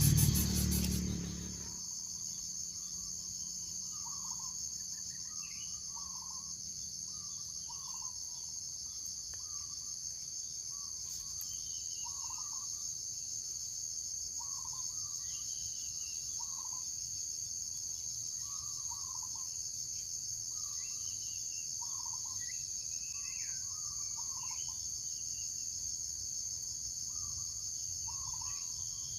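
Steady high-pitched insect chorus with short bird chirps repeating about once a second over it. A louder low sound fades out in the first two seconds.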